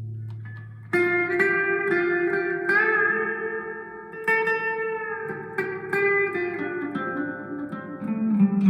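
Electric guitar played through a Vox AV15 valve amp on a clean setting with reverb turned up: a string of picked notes and held chords with a bent note, starting about a second in.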